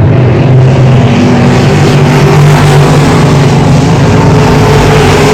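Race car engines running loud and steady on the track, a continuous multi-engine drone whose pitch shifts slightly.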